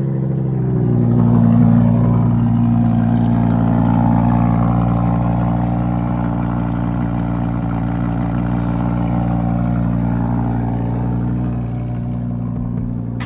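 Lamborghini Huracán's 5.2-litre V10 holding a steady fast idle just after a cold start. It swells slightly early on and settles a little lower near the end.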